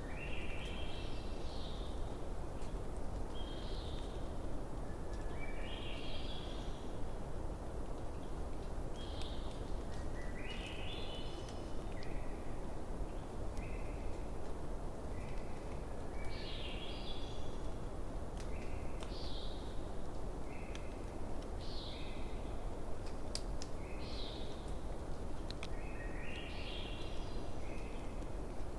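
Bonfire burning with a steady low rush and a few sharp pops about two-thirds of the way through. Over it, short chirping animal calls repeat every second or two, some as quick runs of several notes.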